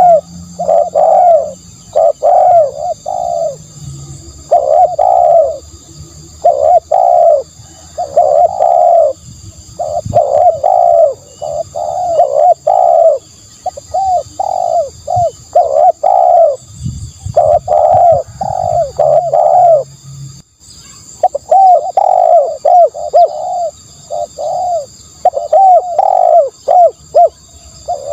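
Spotted dove cooing over and over in phrases of two to four short coos, with a brief break a little after twenty seconds in.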